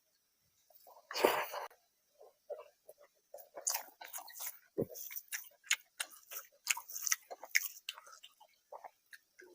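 Close-up chewing and eating mouth sounds: a rapid run of short wet smacks and clicks. A louder, longer burst of noise comes about a second in.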